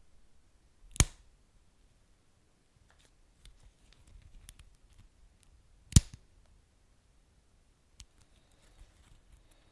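Wood fire burning quietly, with two sharp pops about a second in and near the middle, one smaller pop later, and faint crackles between.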